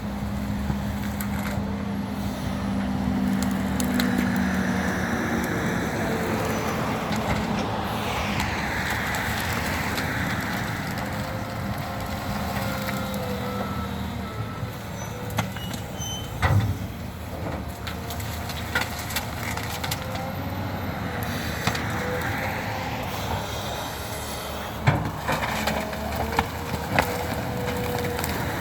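Tractor with a front loader running, its engine steady while a whine rises and falls several times as the loader works. A few sharp knocks midway and near the end, typical of logs bumping against the shovel.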